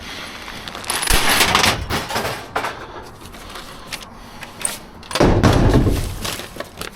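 Scrap and debris being shifted around in a dumpster. There is a scraping rustle about a second in, then a louder, heavier scrape and thump about five seconds in.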